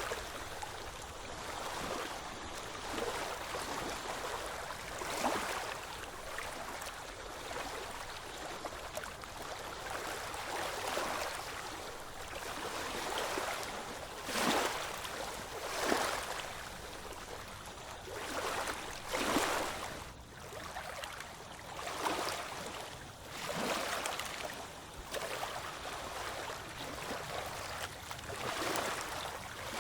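Ocean waves washing continuously, with sharper splashing surges every few seconds, the loudest about halfway through and near the end.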